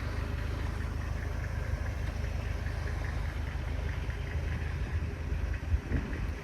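A steady, low engine rumble, like a motor vehicle idling, that drops away sharply at the end.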